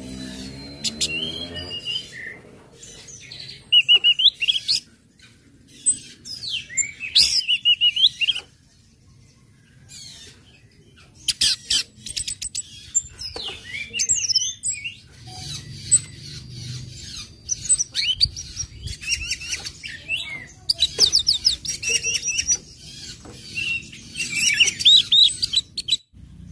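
Orange-headed thrush (anis merah) singing in bursts of quick, varied chips and gliding whistled phrases, pausing for about two seconds partway through.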